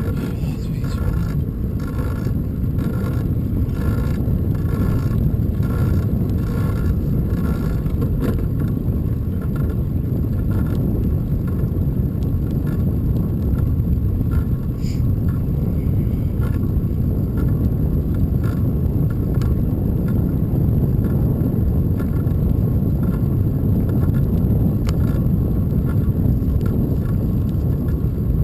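Steady rumble of wind on the microphone and tyres on the road during a bicycle ride. Faint regular ticking is heard in the first several seconds.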